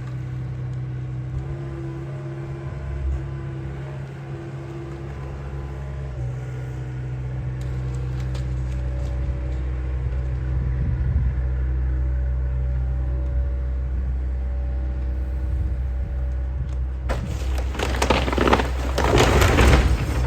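Excavator's diesel engine running steadily, and in the last few seconds loud crunching and cracking of wood as the house structure is broken up.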